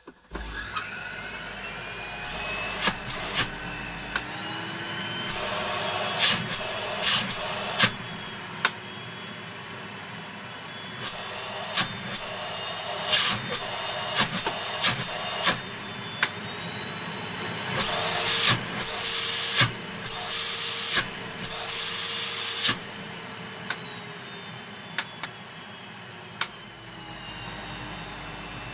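1983 National Panasonic Jet-Flo cylinder vacuum cleaner (MC7540, 1300 W motor) switched on for its first run after a service: the motor spins up and runs steadily with a whine that drifts slowly up and down in pitch. Many sharp clicks and knocks are heard over it.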